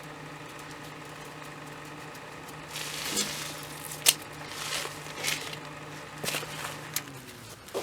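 A steady machine hum that cuts off near the end, with irregular rustling and clattering of things being handled from about three seconds in and one sharp knock about four seconds in.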